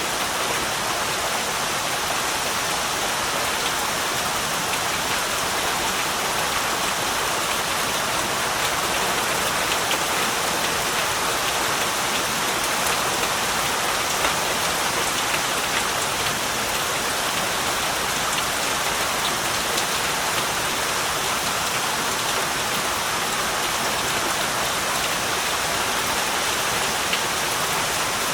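Steady heavy rain falling, a dense even hiss of drops on surfaces with fine pattering throughout and no thunder.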